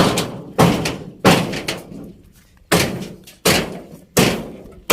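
Loose corrugated iron sheets on a field hut banging in strong wind: six sharp bangs at uneven intervals, each ringing briefly.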